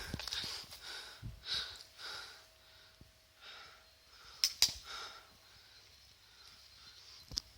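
A person's rhythmic breathing, a soft puff every half second or so, growing fainter, with a couple of sharp clicks about four and a half seconds in.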